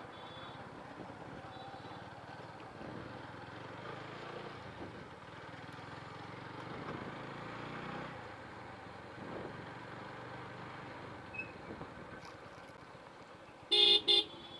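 Motorcycle riding along with a steady engine and road noise, then two short, loud horn beeps in quick succession near the end.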